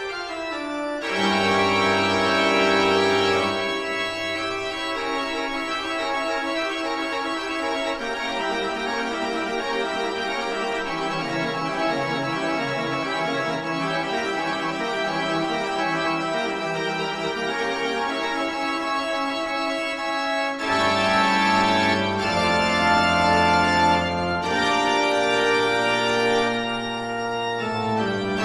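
Organ music: sustained chords changing every few seconds, with a downward sweep near the end.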